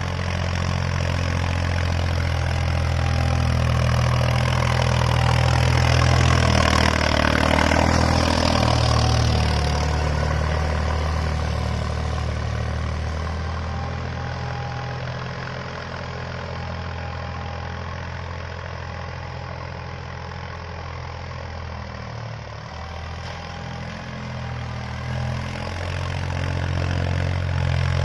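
Tractor diesel engine running steadily. It swells to its loudest about seven seconds in, eases off through the middle and builds again near the end.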